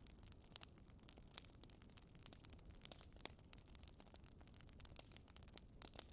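Faint wood fire crackling in a fireplace: irregular sharp snaps and pops, several a second with a few louder ones, over a low steady rumble of the flames.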